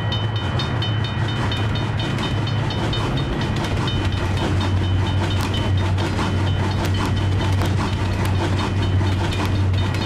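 A train rolling past: a steady low rumble with a rapid, even clickety-clack of wheels over rail joints. A high ringing tone is heard at the start and fades out over the first few seconds.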